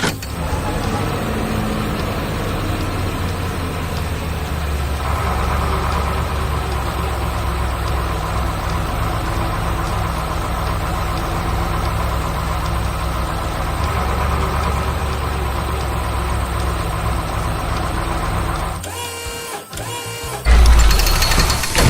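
Heavy construction-machine engine running steadily with a deep rumble, in the style of a cartoon sound effect. Near the end the running sound breaks off and a loud low thump follows.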